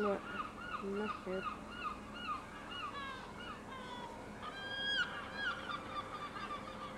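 A bird calling in a fast run of short, arched chirps, about three a second, with a few higher, longer notes about five seconds in.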